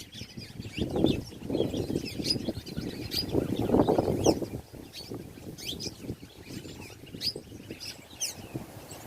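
Small birds chirping, many short high chirps repeated throughout, with bursts of louder low rustling noise in the first half.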